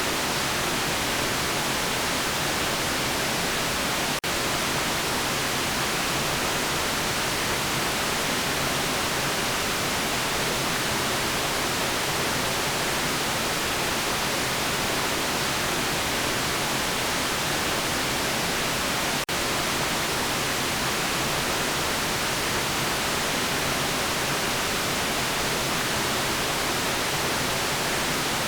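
Steady white noise, an even hiss strongest in the treble, that drops out for an instant twice, about four and about nineteen seconds in.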